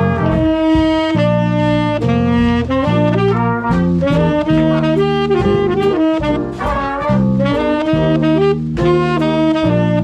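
Swing band playing jazz, with saxophones and brass sounding chords in short held blocks over a drum beat.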